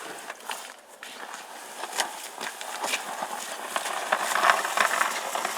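Irregular crunching and scraping in snow, growing louder about four seconds in.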